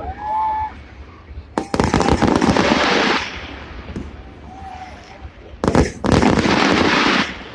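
Fireworks going off in two bursts, each a set of sharp bangs followed by about a second and a half of dense crackling.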